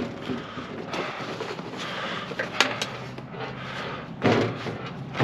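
Workshop handling noise from a microwave oven's parts being put back together: a couple of sharp small clicks, then a dull knock about four seconds in.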